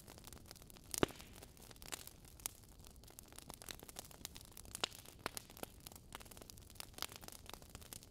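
Fire crackling in a fireplace: irregular sharp pops and snaps over a soft hiss, the loudest pop about a second in.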